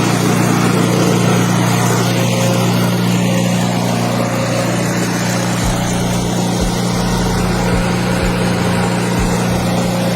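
A steady, loud mechanical drone, like an engine running continuously without change in speed.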